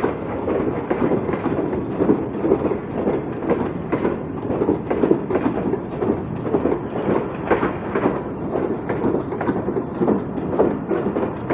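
Passenger coaches of an express train rolling through a station, with a continuous rumble and irregular clacks of the wheels over rail joints.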